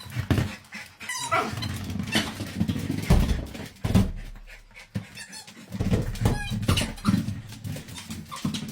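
A dog making vocal sounds, mixed with scattered clicks and knocks and a low rumbling of handling noise at times.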